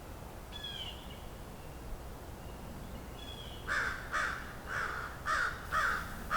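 A crow cawing, a run of about six harsh caws at roughly two a second starting a little past halfway, with faint songbird chirps earlier.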